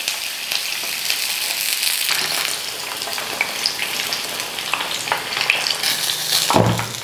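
Pork tails deep-frying in hot oil over high heat: a steady sizzle with sharp pops and crackles from the dried skin as it blisters. A dull thump near the end.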